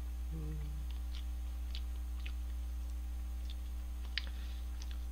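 Faint chewing and wet mouth clicks of a person eating a mouthful of thick instant noodles, with a brief closed-mouth 'mm' about half a second in. A steady low electrical hum runs underneath.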